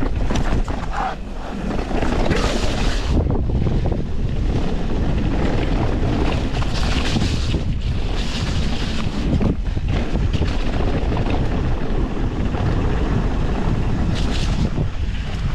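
Wind rushing over a GoPro microphone during a fast mountain-bike descent, mixed with the tyres rolling and rattling over the dirt trail. Short bursts of hiss come and go a few times.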